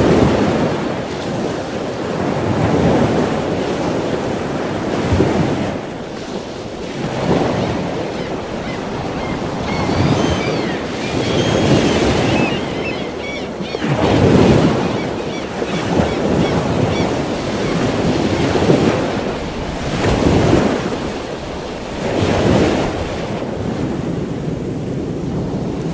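Ocean surf: waves breaking and washing in, swelling and fading every few seconds. A few faint bird chirps are heard about halfway through.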